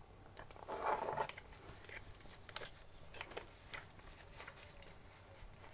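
Faint handling noises as cloth clothing is worked off a plastic action figure: a short rustle of fabric about a second in, then scattered small clicks and ticks of plastic and fingers.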